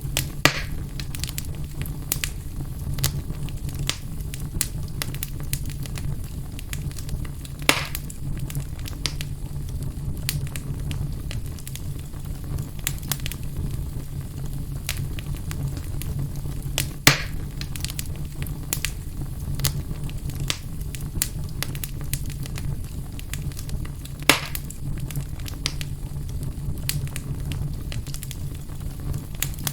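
Fireplace fire burning, crackling continuously with four louder sharp pops spread through, over a low steady rumble.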